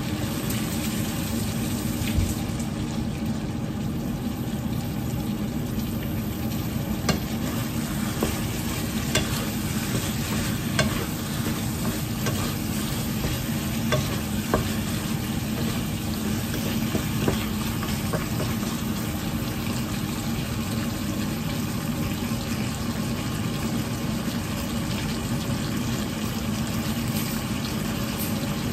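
Stuffed tofu puffs and black fungus sizzling in sauce in a nonstick wok, with a wooden spatula stirring them and knocking against the pan a few times.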